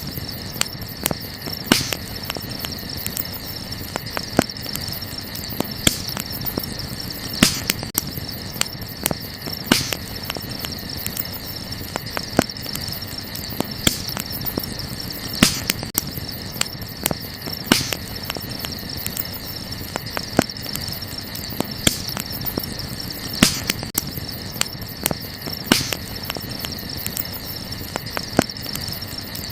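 Wood fire crackling, with small irregular snaps and a louder pop every couple of seconds, over a steady high chirring of crickets.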